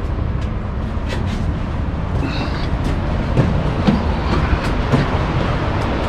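Wind buffeting the microphone as a steady low rumble, over the wash of ocean surf, with a few faint clicks.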